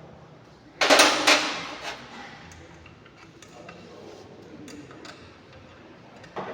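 A quick cluster of sharp knocks and clatter about a second in, fading within a second, then a few faint scattered ticks.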